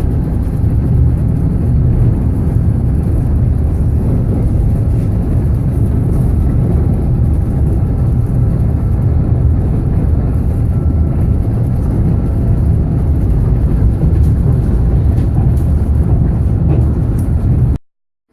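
Train running at speed: a steady low rumble that cuts off suddenly near the end.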